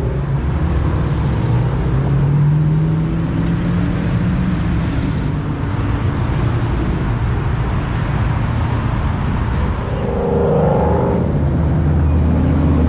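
Car engine running, with its pitch rising about two seconds in and again about ten seconds in.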